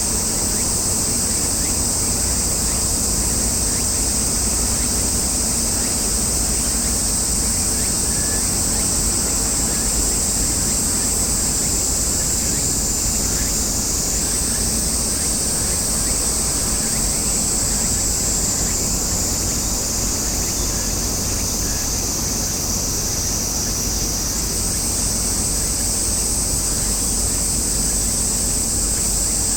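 Cicadas buzzing in a steady, high-pitched chorus that shifts pitch slightly twice, over a steady low rumble.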